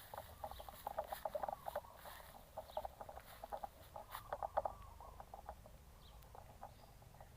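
Chickens clucking softly in quick bursts of short notes, thinning out in the second half.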